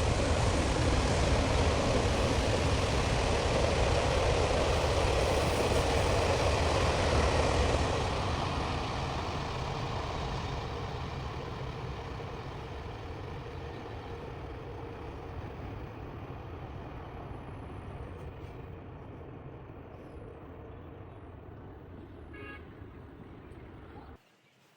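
Train rolling past with a steady rumble and rail noise. After about eight seconds it fades gradually as it moves away, then cuts off abruptly near the end.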